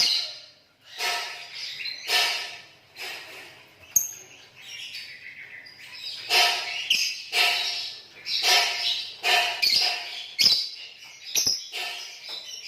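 Green lovebirds chattering in short, harsh, shrill calls. The calls come about once a second at first, then closer together in the second half.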